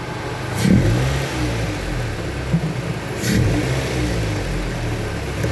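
Ford Mondeo Mk3 engine running, with its intake noise coming through an aftermarket air filter, which is a bit noisy. The engine note swells briefly twice, once about a second in and again near the middle.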